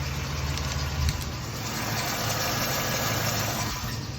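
Jeep Liberty engine idling steadily, with a slight squeak from the drive belt and no exhaust-leak ticking: the exhaust leak has been fixed.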